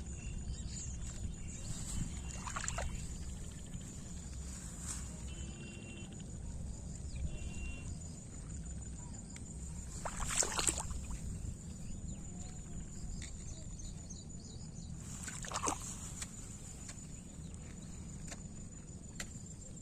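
Outdoor field ambience: a steady low wind rumble on the microphone and a thin, steady high-pitched whine, broken by three brief rustling scrapes, the loudest about halfway through.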